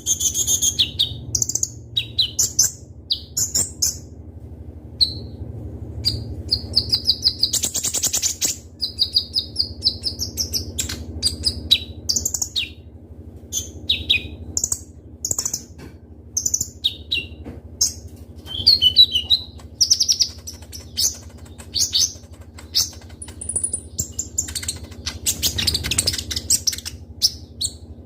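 Kolibri ninja (a sunbird) singing in quick bursts of high, sharp chirps and fast trills, over a steady low hum.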